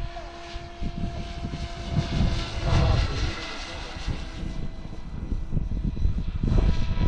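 Electric RC helicopter in flight, its motor and rotor giving a steady whine. Wind buffets the microphone in heavy low gusts throughout.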